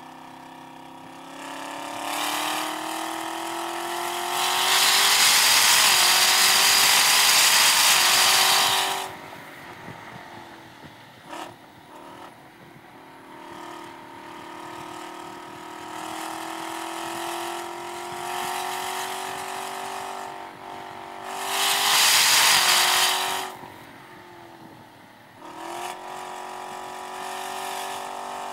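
Chevrolet Camaro ZL1 1LE's supercharged V8 accelerating on track, its pitch climbing steadily through the revs and dropping several times as it shifts or lifts. Two long, loud stretches of rushing noise, one from about five to nine seconds in and a shorter one near the two-thirds mark, cover the engine.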